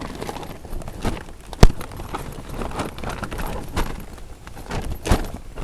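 Footsteps with scattered knocks and clunks, and one sharp, loud knock about a second and a half in.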